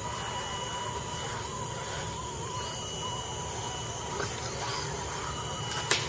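RC truck motor and drivetrain whining steadily, the pitch wavering slightly, with a sharp click near the end.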